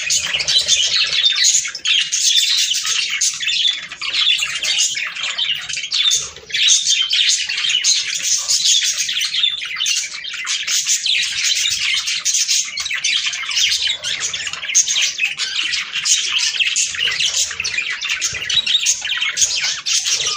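Budgerigars chattering and warbling, with dense overlapping chirps and squawks that go on without a break.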